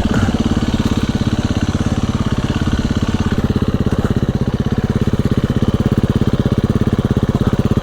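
Dirt bike engine running at low, steady revs with an even, rapid pulsing note.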